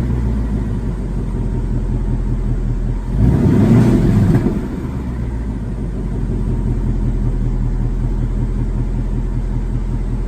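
Warmed-up 2019 Mustang GT's 5.0-litre V8 through its stock non-active exhaust, idling with a rumble. About three seconds in it is revved once, briefly, then drops back to a steady idle.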